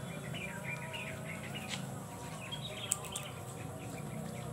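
Small birds chirping in quick, short notes over a steady low hum, with two sharp clicks about three seconds in.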